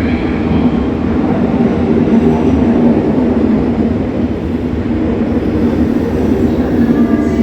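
Steady, loud rumble of a train in the station.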